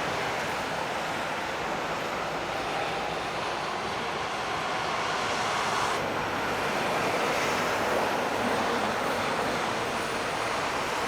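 Heavy road traffic: lorries driving past, a steady rush of tyre and engine noise that swells slightly partway through.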